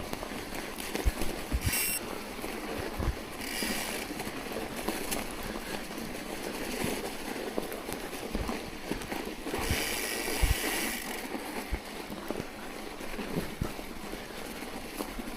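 Bicycle riding through fresh snow: a steady rushing noise of tyres and air, with scattered knocks from bumps and a brief high squeal about two seconds in.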